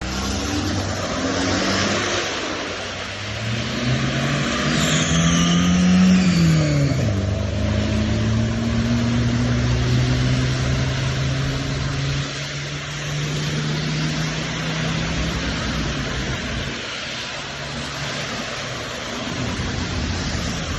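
Road traffic: a motor vehicle's engine note slides down in pitch about five to seven seconds in, then holds steady for several seconds before fading, over a steady hiss.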